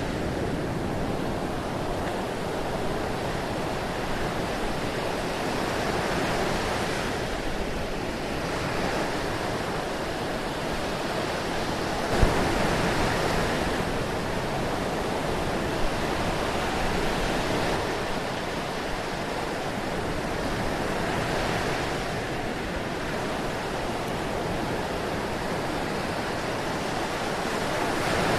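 Ocean surf: waves breaking and washing in, swelling and easing every few seconds. A brief thump about twelve seconds in, and a smaller one a few seconds later.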